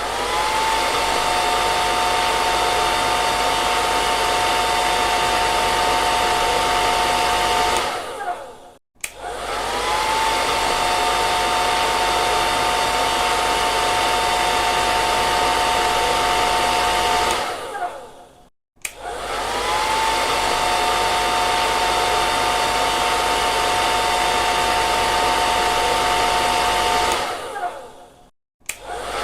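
Hair dryer switched on, its motor whine rising as it spins up, then running steadily with a high whine over the rush of air for about eight seconds before winding down and cutting off. This on-run-off cycle happens three times, with a short silence between runs.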